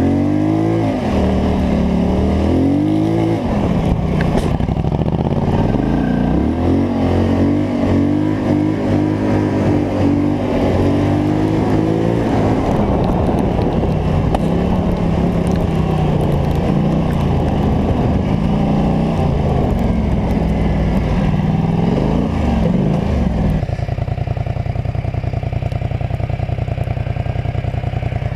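Polaris Scrambler 850 ATV's twin-cylinder engine revving up and down repeatedly as it is ridden, then settling to a steady idle about five seconds before the end.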